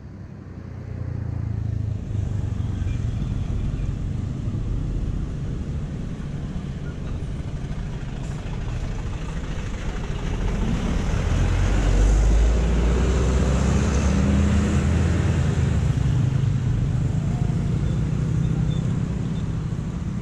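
Motor engines running with a steady low hum over traffic noise, swelling to their loudest about halfway through.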